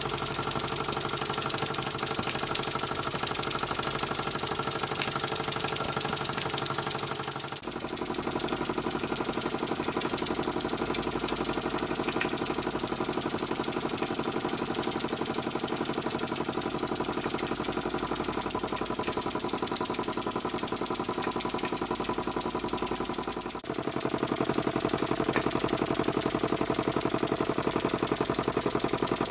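Model vertical steam engine running steadily under load, driving a Baker fan, with a fast, even chuff. The tone of the running shifts abruptly twice, about a third of the way in and again near the end.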